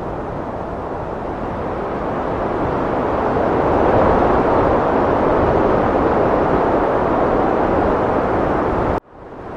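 Heavy wind rushing in a steady roar that swells to its loudest about four seconds in. Near the end it cuts out abruptly and quickly fades back in.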